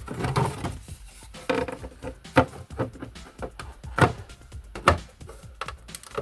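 Parts of a model steam locomotive kit being handled and fitted together: a series of sharp clicks and taps, roughly one a second.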